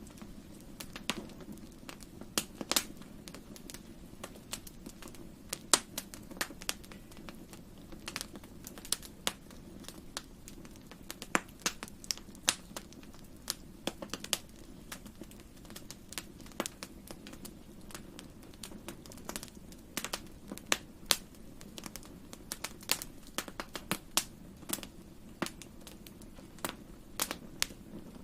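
Wood fire crackling in a fireplace: irregular sharp pops and snaps, a few of them loud, over a low steady rumble.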